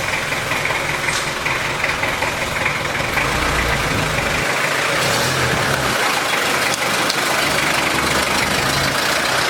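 The Isuzu diesel engine of a Hindustan Ambassador running at low speed, with a steady hiss of heavy rain over it.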